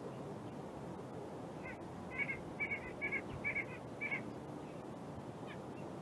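A bird calling off-screen: a run of about six short, evenly spaced calls, roughly two a second, starting about two seconds in and stopping about four seconds in, over a steady outdoor background.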